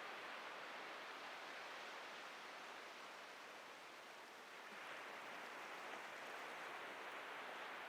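Atlantic ocean surf washing onto a beach, a steady hiss that eases off slightly and swells again about five seconds in.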